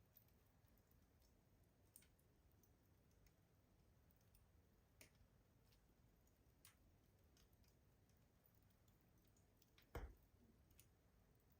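Wood fire crackling faintly in a rustic stove: sparse, irregular sharp pops and ticks a second or more apart, with one louder, deeper pop near the end.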